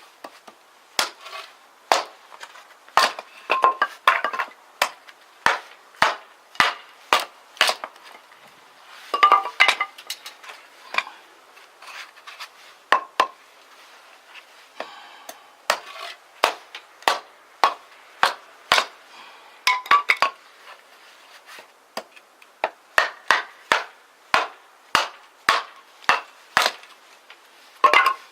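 A kitchen knife chopping on a wooden cutting board: sharp, separate knocks, mostly about one a second, with a few quicker runs.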